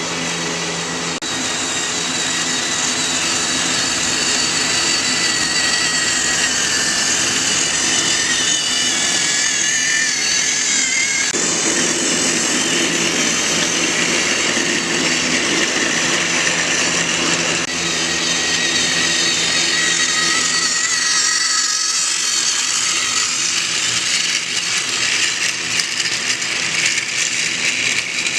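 Small battery-powered Trackmaster toy locomotive motor running steadily, a continuous high gear whine that wavers slightly in pitch as the engine travels along its track.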